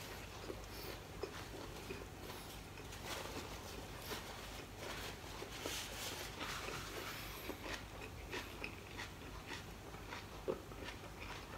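A mouthful of food being chewed close to the microphone: many short mouth clicks and smacks. A paper napkin rustles against the mouth about six seconds in.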